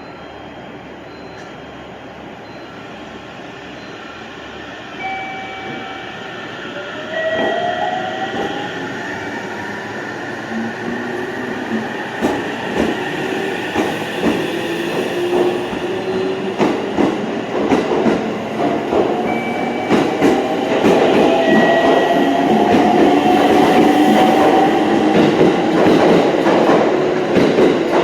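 Electric train pulling out and speeding up. From about seven seconds in, its motors whine in tones that rise in pitch, while the wheels click over rail joints ever faster and louder as it gathers speed.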